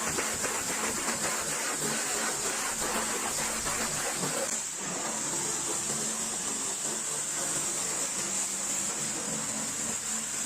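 Pressure washer spraying: a steady hiss of water over a low motor hum, dipping briefly about halfway.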